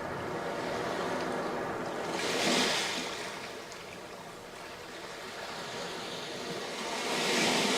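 Sea waves breaking on a sandy beach, a steady wash of surf with two louder breaks, one about two and a half seconds in and another near the end.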